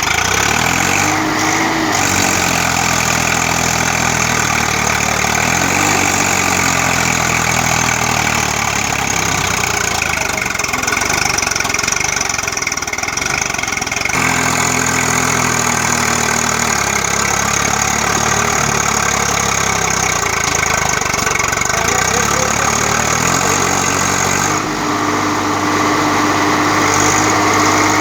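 Swaraj tractor's diesel engine running, its speed rising and falling several times, then holding at a higher steady speed for the last few seconds.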